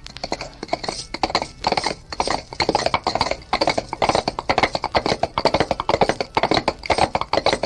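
Horses' hooves clattering in a fast, continuous run of beats.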